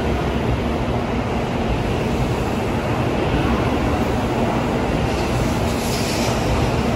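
Tokaido Shinkansen train moving along the platform: a loud, steady rushing noise.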